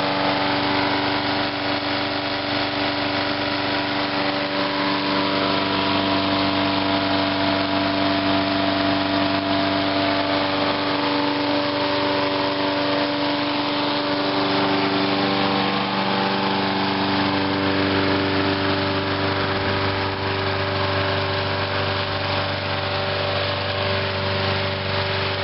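Briggs & Stratton engine of a 22-inch walk-behind mower running steadily, with its note shifting slightly about two-thirds of the way through. The engine is running on the last fuel in the line and carburetor after the tank was siphoned empty, so it can be run dry for winter storage.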